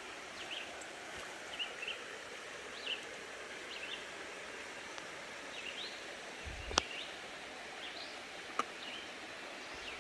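Woodland ambience: scattered short, high bird chirps over a steady hiss, with a sharp click and a low thump about seven seconds in and another click a couple of seconds later.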